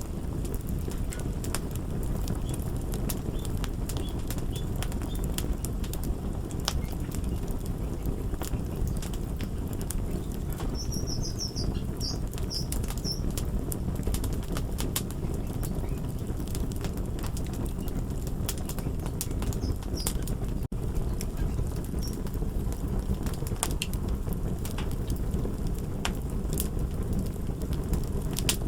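Crackling wood fire: a steady low rumble with frequent sharp crackles and pops. A few brief high squeaks come about twelve seconds in.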